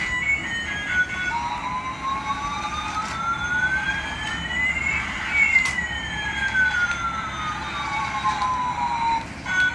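Electronic siren-like tone sweeps: one pitch rises slowly while another falls, the two crossing about halfway through. Short stepped electronic notes play at the start and come back just at the end.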